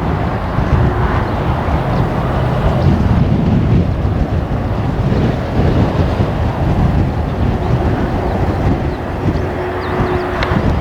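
Boeing 777 jet engines rumbling, buried in heavy strong-wind buffeting on the microphone, with a faint steady tone held under the noise.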